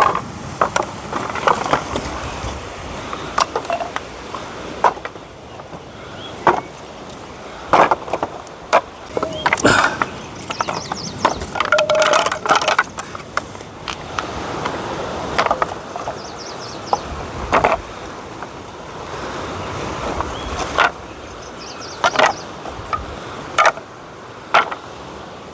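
Irregular knocks, clatters and scraping of hard debris being pulled loose, handled and dragged.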